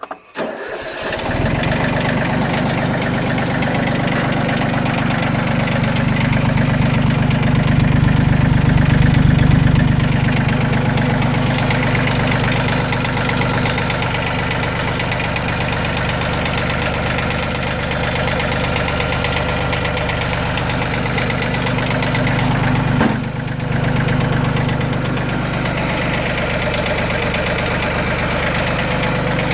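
Yanmar FX16D's three-cylinder diesel engine starting about a second in, then running steadily. It gets somewhat louder for a few seconds early on and drops briefly about three-quarters of the way through. It runs with no strange noises.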